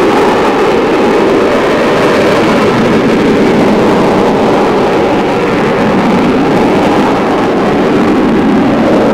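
Loud, steady roar of an Avro Vulcan B2's four Bristol Olympus turbojets, with a faint pitch that wavers slowly.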